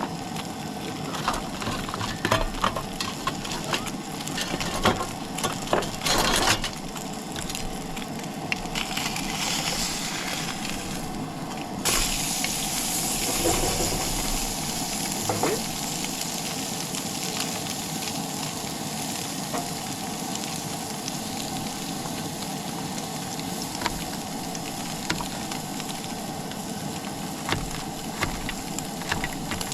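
Seasoned tilapia fillets frying in oil in a hot pan, sizzling steadily. There are scattered clicks and knocks in the first several seconds. About twelve seconds in, the sizzling turns abruptly louder and brighter.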